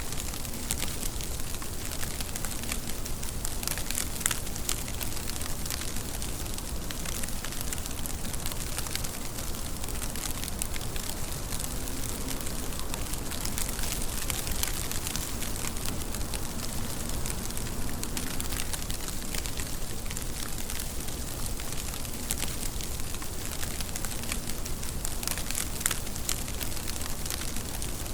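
Steady rain, an even hiss dotted with dense ticks of drops striking a surface.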